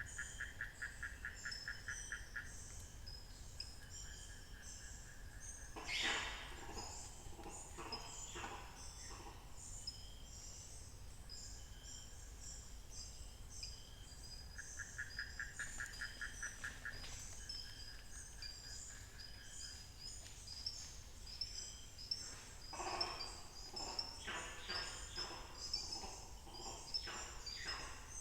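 Mixed dawn chorus of forest birds and insects, with an unbroken run of short high chirps. A rapid, even trill comes twice, near the start and about halfway through. Louder, fuller calls stand out about 6 s in and again from about 23 s.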